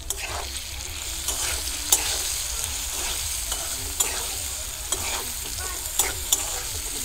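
Cubed potatoes with turmeric, salt and chopped red chilli sizzling in oil in a steel kadhai, stirred with a metal spatula that scrapes and clinks against the pan now and then.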